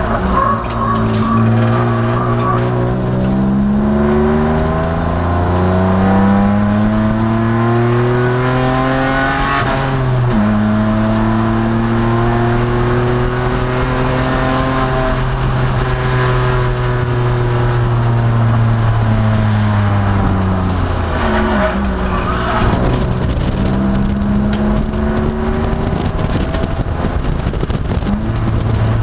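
2002 Nissan Maxima race car's V6 engine heard from inside the car, its note climbing steadily under acceleration. The pitch drops suddenly about ten seconds in at an upshift, falls away through a slowdown, then climbs again from a little after twenty seconds.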